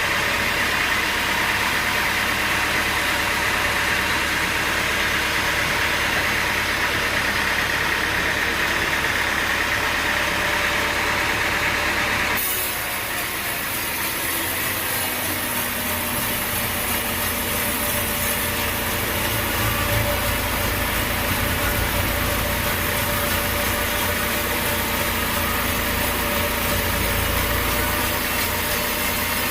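Sawmill machinery running steadily. About twelve seconds in the sound changes abruptly to a deeper, lower running.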